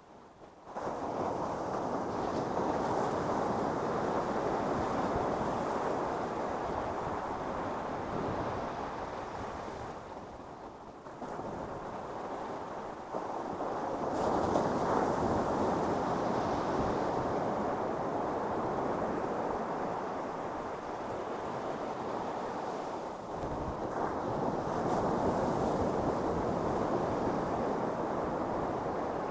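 Ocean surf on a beach: after a near-quiet first second, the rushing noise of breaking waves comes in suddenly and keeps going. It swells and ebbs as successive waves break and wash up, roughly every ten seconds.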